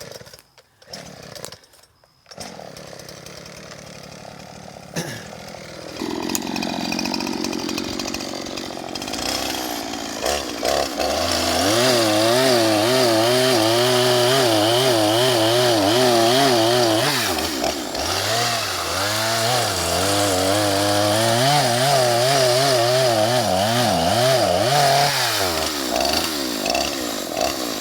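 Two-stroke chainsaw cutting through a tree trunk: after a quieter start it runs at full throttle from about ten seconds in, its engine note wavering up and down as it loads in the cut. It drops off briefly about two-thirds through and revs back up, then falls away near the end.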